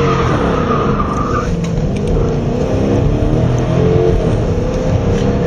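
Car engine heard from inside the cabin under hard acceleration, the pitch climbing, dipping and climbing again as the automatic transmission shifts. It is a demonstration of what a sudden unintended acceleration sounds like.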